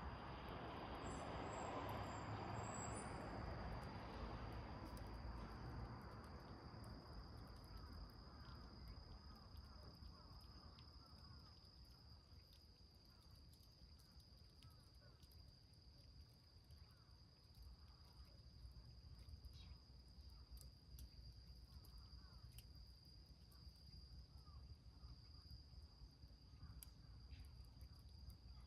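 Faint crackling and ticking of a small wood fire burning in a tin can, with a steady, high, unbroken insect trill throughout. A soft rushing sound fades out over the first few seconds.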